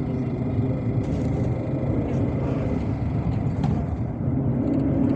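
MAZ-257 bus's diesel engine running under way with tyre and road noise, heard from inside the passenger cabin; the engine note rises a little near the end.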